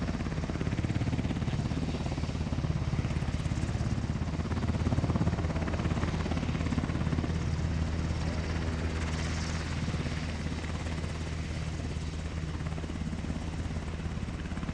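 UH-60 Black Hawk helicopter's twin turboshaft engines and rotor running, a fast even beating of the blades over a low steady hum. It eases slightly in loudness over the second half.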